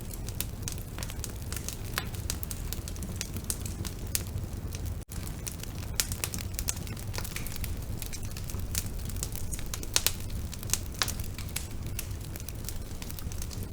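Bonfire burning with a steady low rumble and frequent sharp crackles and pops of burning wood. The sound drops out for an instant about five seconds in.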